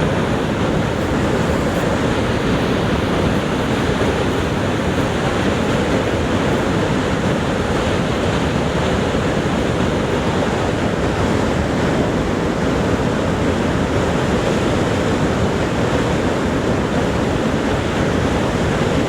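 Niagara Falls' falling water making a steady, unbroken rush, heaviest in the low range.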